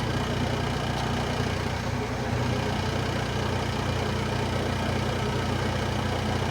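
Heavy mining equipment's diesel engine running steadily at a constant low rumble.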